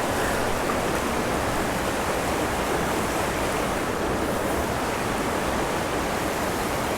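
Waterfall pouring into a deep pool: a steady, unbroken rush of falling water.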